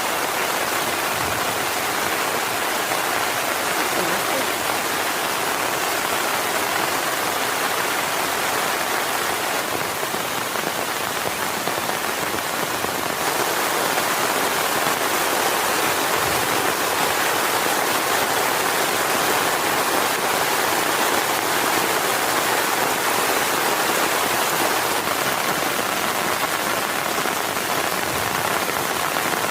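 Heavy rain falling steadily in a dense, even hiss, growing slightly louder about halfway through.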